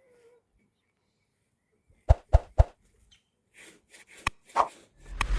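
Three sharp knocks in quick succession, about a quarter second apart, followed by scattered lighter clicks and knocks and a sudden burst of noise near the end.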